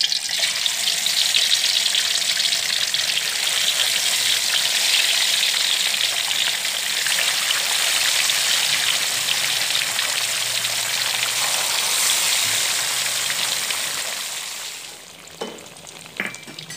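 Tofu cubes frying in hot oil in a wok: a dense, steady sizzle that drops away suddenly about a second and a half before the end, followed by a few light clicks.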